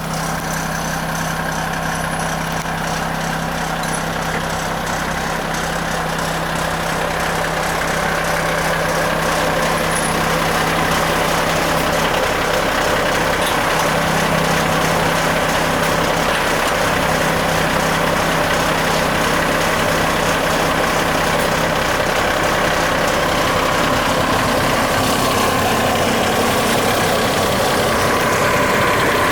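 Renault Midlum 220 dCi truck's diesel engine idling steadily, with a steady hum in the sound that stops about three quarters of the way through.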